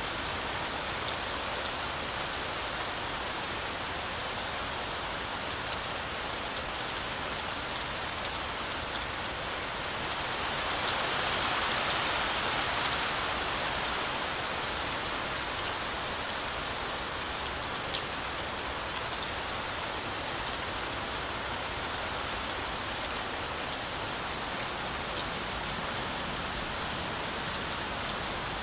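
Heavy rain falling steadily, a dense even hiss with scattered individual drops. It swells louder for a few seconds about a third of the way in, then settles back.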